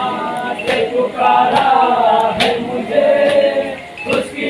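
Men's voices singing a noha lament together in chorus, unaccompanied, with a sharp strike about every 0.8 seconds keeping the beat, as in matam chest-beating.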